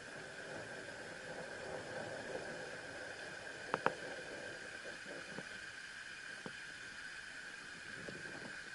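Tamasudare Falls, not fully frozen, with water falling as a steady hiss. Two sharp clicks come close together a little under four seconds in.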